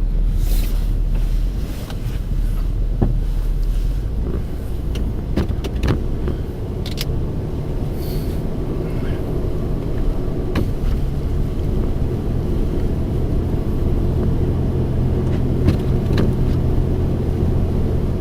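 Car engine and road noise heard from inside the cabin while driving on snowy roads: a steady low hum, with a few short sharp clicks or knocks scattered through it.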